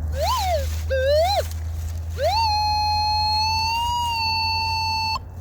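Metal detector pinpointing a buried target: two short sliding beeps, then a tone that rises and holds steady for about three seconds before cutting off, over a low steady hum. The clean, steady tone marks a non-iron target.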